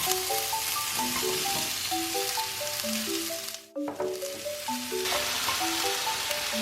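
Food sizzling in a hot frying pan, a steady crackling hiss that breaks off briefly just under four seconds in and then resumes, over light mallet-percussion background music.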